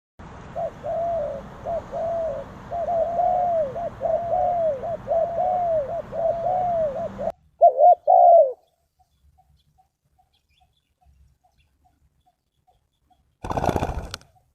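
Spotted dove cooing: a quick run of repeated arched coo notes for about seven seconds that breaks off abruptly, then a few louder coos. Near the end, a short rustling burst of noise.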